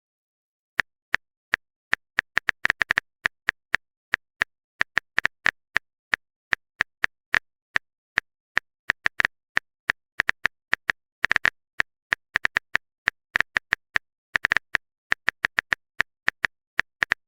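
Typing sound effect: short, sharp keyboard-style clicks at an uneven pace, single taps and quick runs of several, with dead silence between them.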